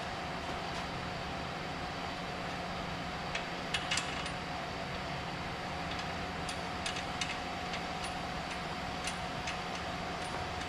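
Light clicks and clinks of hand work on car parts over a steady background hum. A cluster comes about four seconds in, with more around seven and nine seconds.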